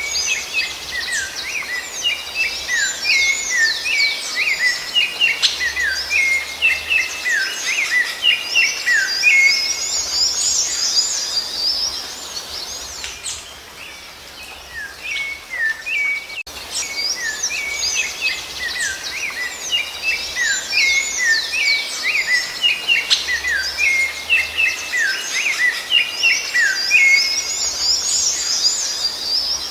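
Rufous-bellied thrush (sabiá-laranjeira) singing, a dense run of quick, varied whistled notes and slurs, with a lull around the middle before the song starts again.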